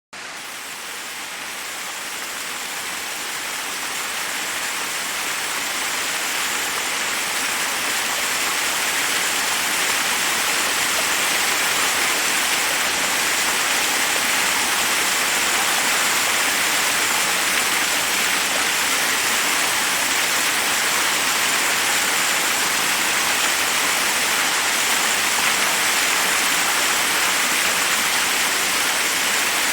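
Forest waterfall: water rushing steadily over rocks, an even hiss that fades in over about the first ten seconds and then holds steady.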